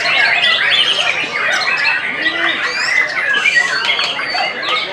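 White-rumped shama singing a rapid, unbroken stream of varied whistled notes that glide up and down in pitch.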